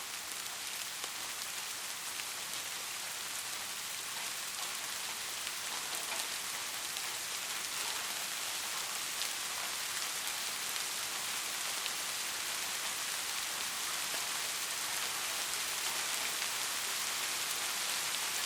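Steady rain falling, a dense even hiss of drops with faint scattered patters, growing slightly louder over the stretch.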